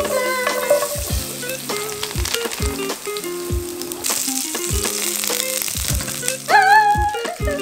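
Garlic cloves sizzling in hot olive oil in a frying pan, under background music. About six and a half seconds in, a woman lets out a short, high, wordless squeal at the hot oil.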